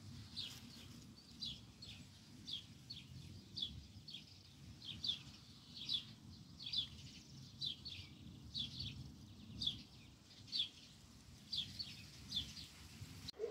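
A small bird chirping over and over, short high chirps that drop in pitch, about two a second and sometimes in pairs, over a faint low background hum.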